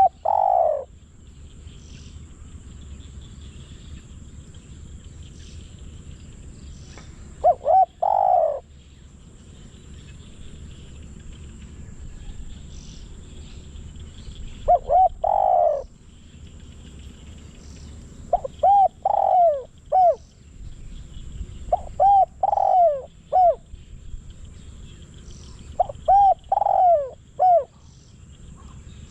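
Spotted dove cooing in short phrases of two to five notes, each note a brief falling arc, with pauses of several seconds between phrases. The phrases come closer together in the second half. The bird is a decoy dove, calling to draw in wild doves.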